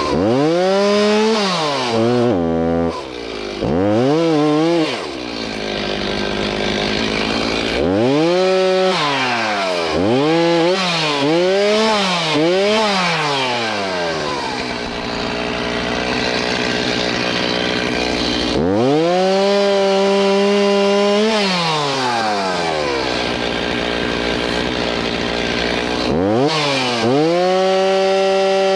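Chainsaw revving up and down over and over while cutting trees, held at full throttle for a second or two at a time and falling back toward idle in between. The longest full-throttle runs come in the second half and again near the end.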